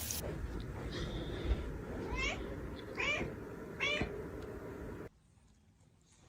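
A cat meowing three times, short calls about a second apart, over a low steady background. The sound then cuts off abruptly.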